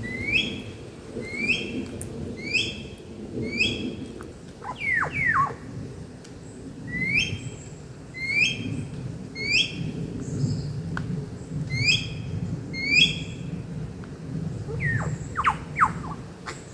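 Rainforest birds calling: a short rising call repeated in runs of four or five, about one every two-thirds of a second, with a few quick falling whistles between runs, over a steady low rumble.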